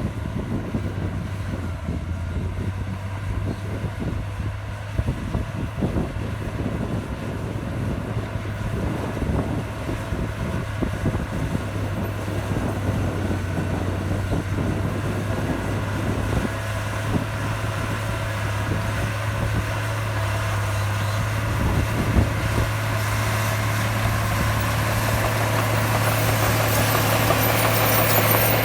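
Diesel engine of heavy earthmoving machinery running steadily with a constant low hum, growing louder over the last few seconds.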